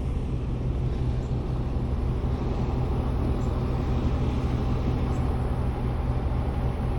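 Steady low rumble of rooftop HVAC equipment running: fans and motors humming without a break.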